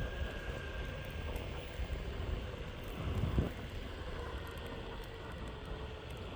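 Meepo Hurricane electric skateboard rolling on pavement: steady rumble of its honeycomb wheels on the road, with a faint steady tone running underneath and a short louder bump a little past three seconds in.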